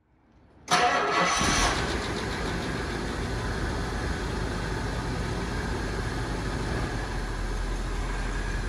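1972 Rolls-Royce Silver Shadow's 6.75-litre V8 starting from cold: it fires about a second in, runs louder and unevenly for a second, then settles into a steady idle.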